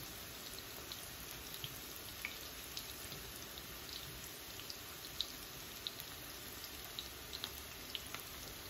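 Breaded morel mushrooms frying in hot oil in a cast iron skillet: a faint steady sizzle with scattered small pops, several a second.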